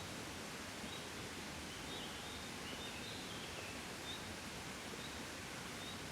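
A gentle summer breeze blowing steadily, an even rushing. Faint short bird chirps come about once a second, with a brief flurry of them in the middle.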